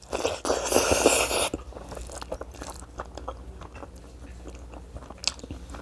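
Chewing crunchy, fire-dried buffalo meat (sukuti) close to the microphone. A loud crunch and chew fills the first second and a half, then it gives way to quieter chewing with scattered small clicks.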